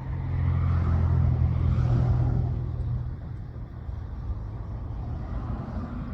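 A motor vehicle's engine rumbling, swelling over the first three seconds and then easing off to a lower steady rumble, as if passing by.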